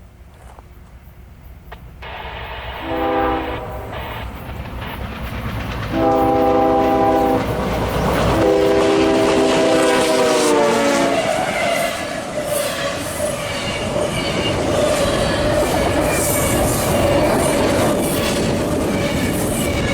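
A fast CSX intermodal freight train approaches and sounds its locomotive air horn for the grade crossing: one short blast, then two longer ones, the last dropping in pitch as the locomotive passes. The cars then rush by with loud rumbling wheels and rhythmic clicking over the rail joints.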